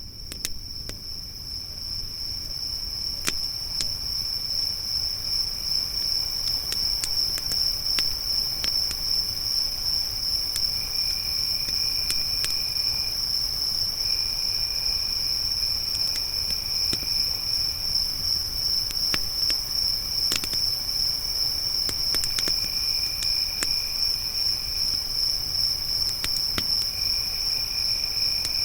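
Crickets chirping in a high, steady, rapidly pulsing trill, with a second, lower insect trill coming and going in spells of a few seconds. A campfire crackles underneath with scattered sharp pops. The whole sound fades in over the first couple of seconds.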